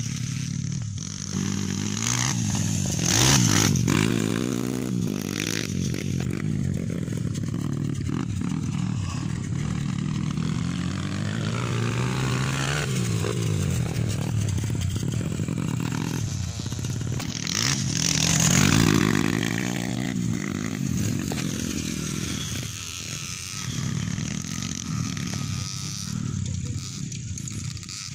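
Motocross bikes racing, their engines revving up and down through the gears, with bikes passing close and loudest about three seconds in and again about two-thirds of the way through.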